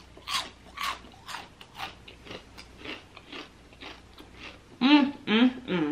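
Crunchy chewing of crispy fried chicken, about two crunches a second, close to the microphone. Short wavering voice sounds come in near the end.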